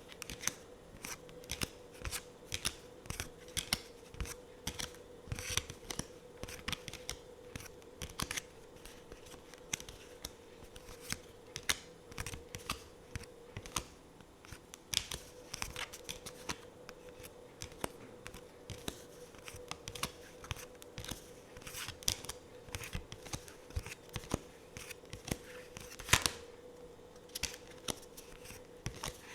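Tarot and oracle cards handled close to the microphone: an irregular run of crisp clicks and taps, with one louder snap near the end, over a faint steady hum.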